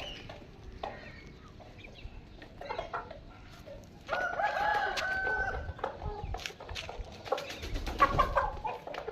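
A young rooster crowing once, one long held crow of nearly two seconds about four seconds in, among scattered chicken clucks.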